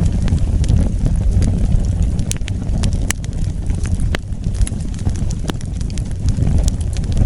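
Wood fire burning: a steady low rumble of flames with irregular sharp crackles and pops.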